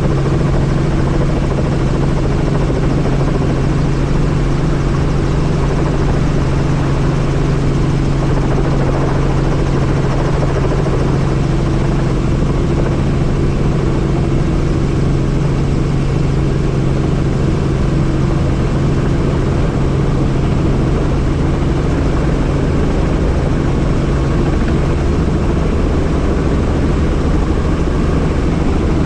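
Helicopter in steady flight heard from on board with the doors off: a constant low drone of rotor and engine under a steady rush of wind.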